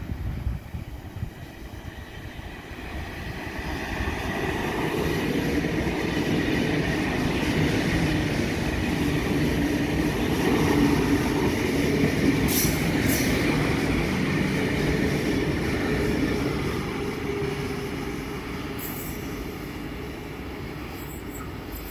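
Double-deck electric passenger train running past along the platform: its rumble builds over the first few seconds, stays loud through the middle, then fades. A faint steady wheel squeal runs under it, and two sharp clicks come about twelve and thirteen seconds in.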